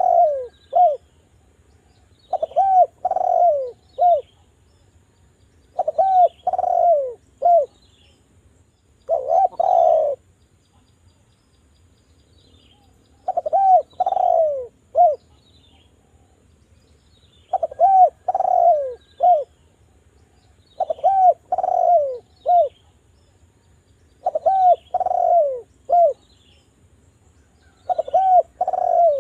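Island collared dove (derkuku) cooing: phrases of three or four short falling coos repeated every three to four seconds, a recorded call used as a lure to set other derkuku calling. Faint high chirps from a smaller bird sound between the phrases.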